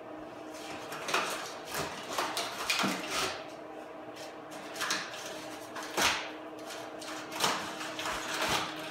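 Cardboard box and packing material being handled and pulled about, a run of irregular scraping, sliding swishes, over a faint steady hum.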